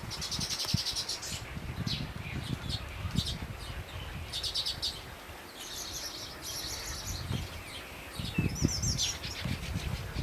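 A small songbird chirping in several short bouts of rapid, high trills, over an uneven low rumble.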